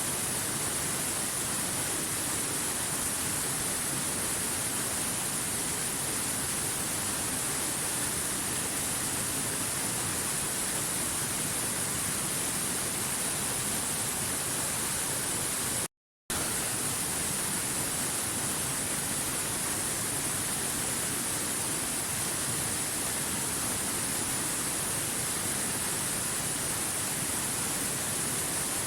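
Rushing stream splashing over rocks, a steady full hiss of running water. It cuts out completely for a split second about sixteen seconds in, then carries on unchanged.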